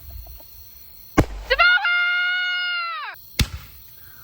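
Consumer fireworks going off: a sharp bang about a second in, then a shrill whistle that rises, holds steady for about a second and a half and drops away, and another bang later on.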